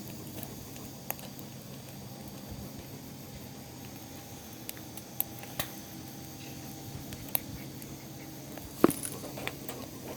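Firewood fire crackling: scattered sharp pops over a steady low background, the loudest pop about nine seconds in.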